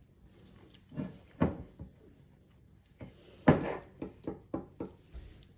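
Someone chewing a bite of a no-bake bird's nest cookie close to the microphone: scattered sharp crunches, the loudest about three and a half seconds in, then a quick run of about four a second.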